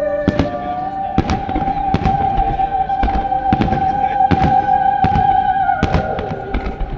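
Fireworks going off in quick succession, sharp bangs about one or two a second, over music with a long held note that drops in pitch near the end.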